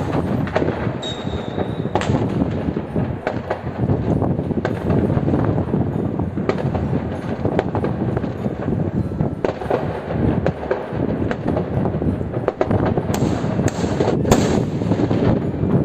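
New Year's fireworks: a dense, continuous rumble of many explosions with sharp bangs and crackles throughout, and a brief high whistle about a second in.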